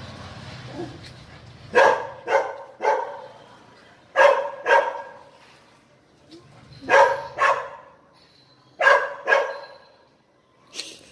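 Puppy barking, about ten short, sharp barks that come in quick pairs and triples with pauses between the groups.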